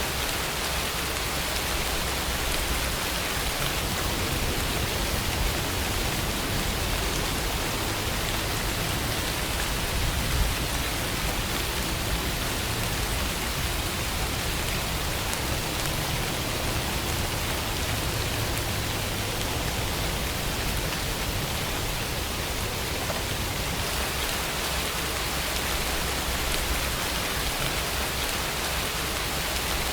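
Steady rainfall, an even hiss of rain falling on a surface, with no breaks.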